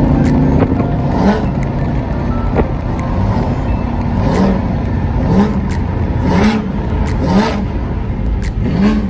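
Car engine and exhaust rumbling at low cruising speed, heard from inside the car. Short revs rise and fall in pitch roughly once a second.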